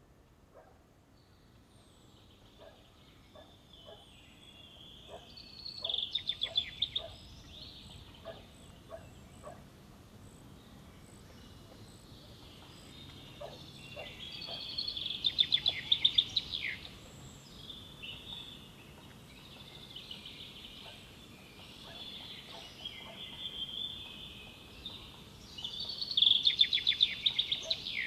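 Small birds chirping and twittering, with three loud bursts of rapid trilling: about six seconds in, around the middle, and near the end.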